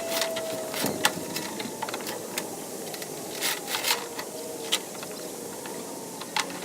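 Irregular sharp metallic clicks and clanks from tie-down straps and chains being fastened. Underneath is a steady engine noise with a faint whine that falls slowly in pitch.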